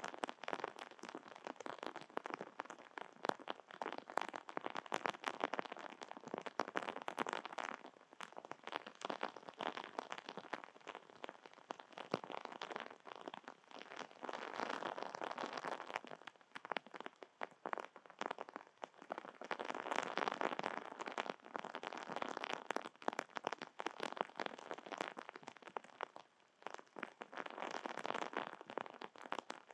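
Rain pattering on surfaces close to the microphone: a dense, irregular run of small drip ticks over a steady wash that swells and eases in waves.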